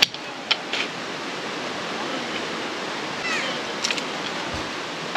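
Steady rush of a mountain valley stream, with a few sharp clicks near the start and another about four seconds in.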